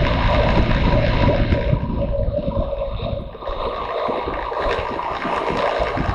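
Motorcycle on the move: engine running under heavy wind buffeting on the microphone, with a brief dip in loudness about three and a half seconds in.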